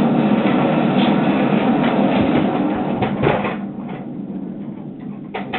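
A loud rushing, hissing explosion noise: the pipe bomb going off. It lasts about three and a half seconds, then dies away.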